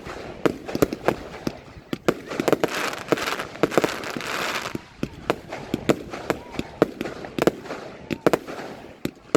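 Fireworks display: a quick, irregular run of sharp bangs, several a second, with a stretch of dense hissing around the middle.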